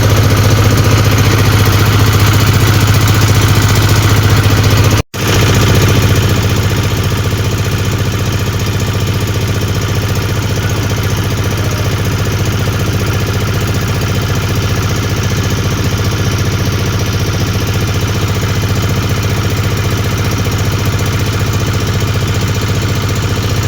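Vehicle engine running at a steady speed, a constant low hum with no revving. It cuts out abruptly for a split second about five seconds in, then carries on unchanged.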